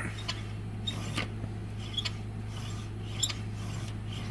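A few faint, scattered clicks and taps of a Jada die-cast model car being handled, over a steady low hum.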